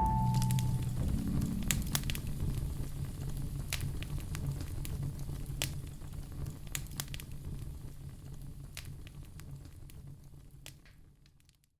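Wood campfire crackling, with scattered sharp pops over a low steady rumble, the whole sound fading away and stopping just before the end. A few fading marimba-like notes are heard in the first second.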